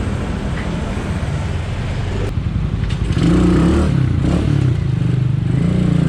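Motorcycle engine running, then revving up about three seconds in, its pitch rising and falling as it pulls.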